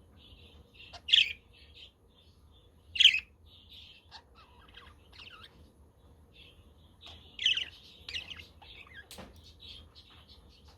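Budgies chattering and warbling continuously, with three louder, sharper calls standing out about one, three and seven and a half seconds in.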